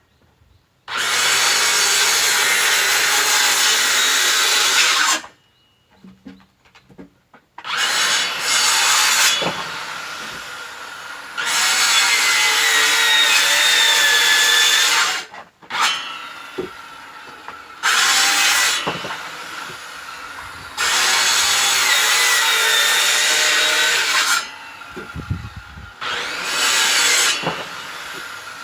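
Electric power saw cutting firewood in repeated runs of a few seconds each. It drops back to quiet between cuts, and the motor's pitch shifts under load.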